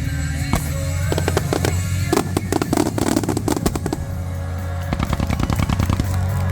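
Fireworks crackling in two rapid runs of many sharp pops, the first lasting a few seconds and the second shorter near the end, over steady music.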